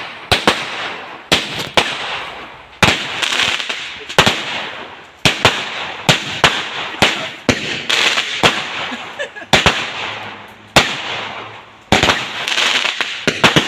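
Fireworks going off: a rapid, irregular string of sharp bangs, roughly one or two a second, each trailing off in a hissing crackle.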